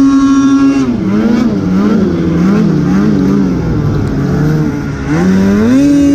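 Snowmobile engine held at high revs. About a second in the pitch drops and wavers up and down several times, then climbs back to a steady high rev near the end.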